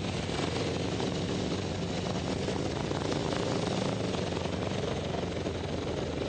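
Steady engine drone with a fast, even pulse, from a motorcycle or an aircraft such as a helicopter.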